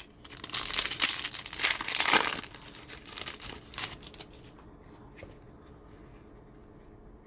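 A 2023 Mosaic Football trading-card pack wrapper being torn open and crinkled, loudest in the first two seconds, then a few soft rustles and clicks.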